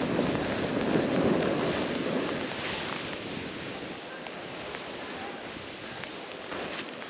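Snowboard sliding through powder snow with wind rushing over a helmet-mounted camera's microphone; louder for the first two or three seconds, then easing off.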